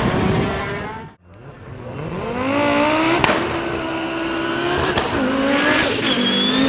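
Hill-climb race car accelerating hard from a standing start, its engine note climbing steeply and then stepping through gear changes, with sharp cracks at the shifts. In the first second another race car's engine is heard at high revs until it cuts off abruptly.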